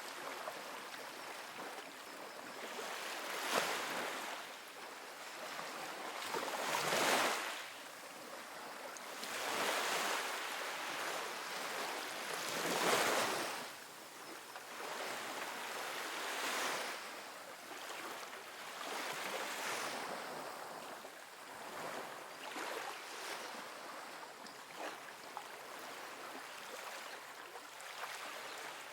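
Gentle ocean waves breaking and washing up a sandy beach, a steady surf hiss that swells every three seconds or so as each wave comes in, loudest about seven and thirteen seconds in.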